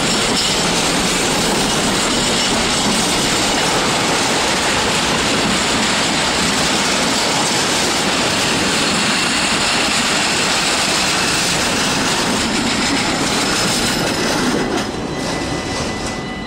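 Freight train's container wagons rolling past, a steady loud rush of wheels on rails. It falls away about fifteen seconds in as the last wagon clears.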